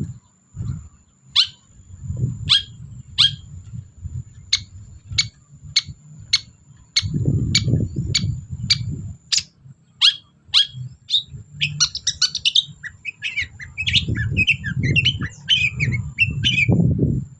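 Long-tailed shrike (cendet) singing: a run of about fifteen sharp, evenly spaced notes, nearly two a second, then a burst of varied quick chattering notes near the end. A steady thin high tone runs underneath, with intermittent low rumbling noise.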